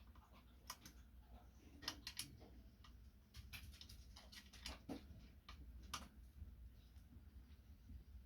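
Faint, scattered clicks and small knocks of hand tools and metal parts being handled, over a low background hum.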